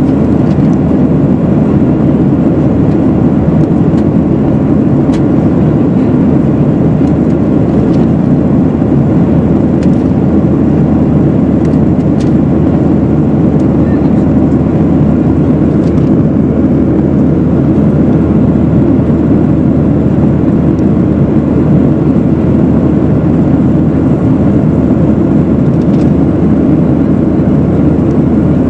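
Steady cabin noise of a jet airliner in flight, heard from inside the passenger cabin: a constant low rush of engines and airflow that doesn't change, with a few faint clicks.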